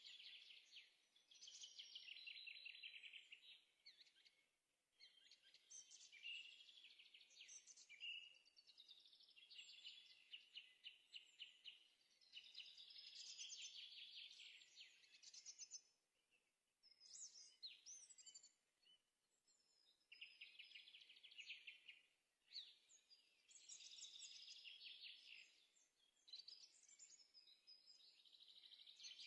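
A small songbird singing faintly in long phrases of fast trills and chirps, with brief pauses between phrases.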